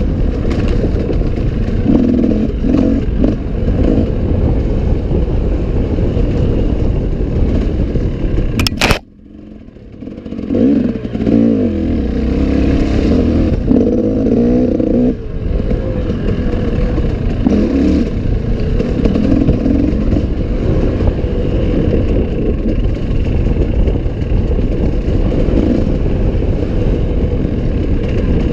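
Off-road enduro motorcycle engine running hard, revving up and down as it climbs and turns. The sound cuts out sharply for about a second, about nine seconds in, then comes back.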